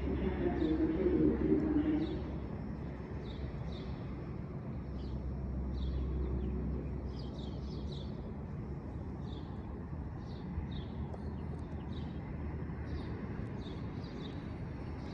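A small bird chirping repeatedly, short high chirps about one to two a second, over a steady low background rumble.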